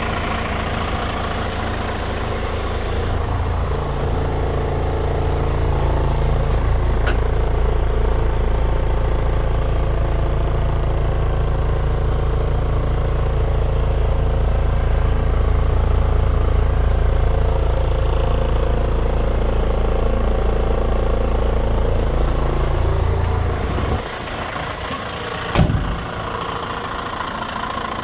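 Renault 110-150 4x4 truck's diesel engine running steadily, its note shifting a few seconds in. About 24 seconds in the deep engine sound suddenly drops away, and a single sharp knock follows a moment later.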